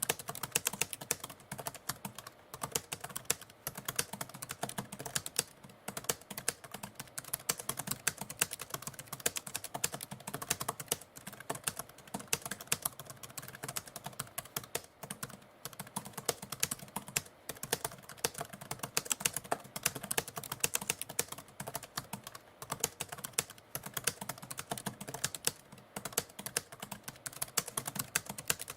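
Typewriter typing: a quick, continuous run of key strikes, several clicks a second with uneven spacing.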